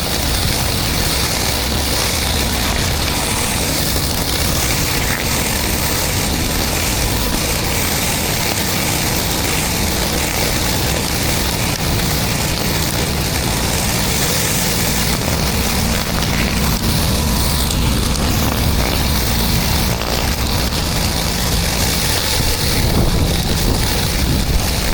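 A pressure washer running with water spraying at high pressure: a steady hiss over a low engine rumble, with no break.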